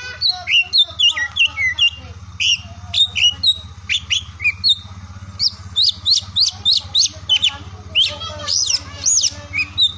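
Oriental magpie-robin (kacer) singing a fast, varied song of whistled notes and sweeping chirps, with a low steady hum underneath.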